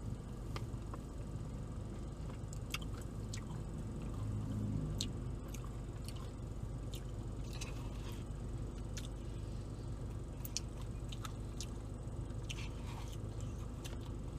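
A man chewing and biting food with small wet mouth clicks scattered throughout, over a steady low hum.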